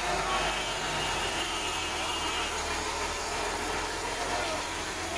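A vehicle engine running steadily under a hiss of street noise.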